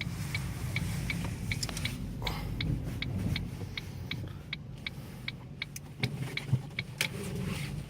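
Inside a moving car's cabin: a steady low engine and road hum, with the turn-signal indicator ticking evenly about three times a second during a turn-around manoeuvre.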